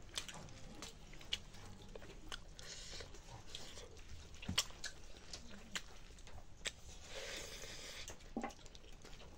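A person chewing mouthfuls of chicken curry, eaten by hand, close to the microphone. Soft wet smacks and small clicks are scattered throughout, with two longer stretches of chewing, about two and a half seconds in and about seven seconds in.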